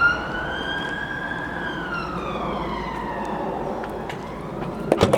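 Emergency vehicle siren wailing: one slow rise in pitch and a slow fall over a low background rumble. A few sharp knocks near the end.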